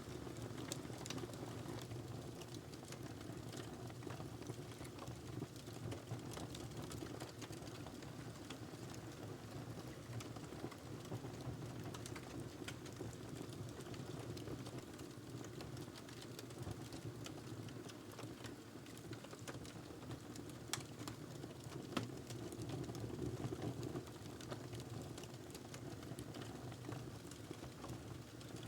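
Wood fire crackling in a fireplace: frequent irregular sharp pops and crackles over a steady low background of the burning fire.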